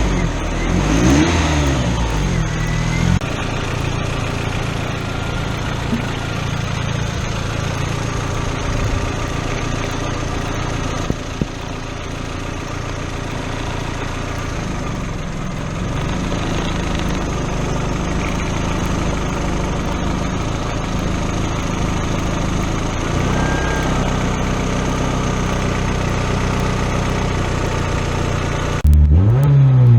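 Turbocharged Honda F22B four-cylinder engine with a freshly rebuilt cylinder head, idling steadily. It is revved up and down in the first few seconds and again near the end.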